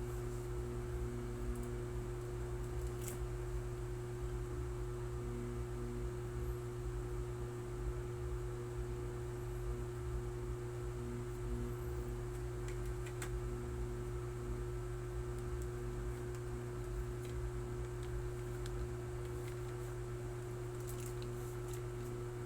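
Steady electrical hum made of several low, even tones, with a few faint clicks now and then.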